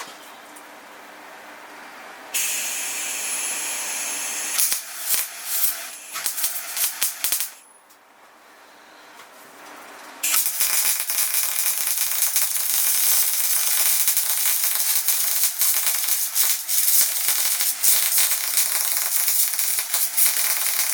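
Electric welder's arc crackling and sizzling as a part is welded onto a steel motorcycle gas tank: a short, stuttering bead about two seconds in, then after a pause a longer steady run from about ten seconds in.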